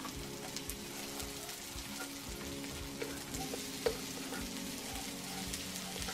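Sliced onion, ginger and garlic sizzling in hot oil in a wok, stir-frying, with a wooden spatula scraping and tapping the pan a few times.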